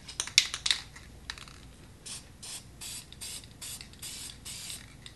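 Aerosol spray-paint can sprayed in about seven short, quick bursts, each a brief hiss, after a few sharp clicks near the start.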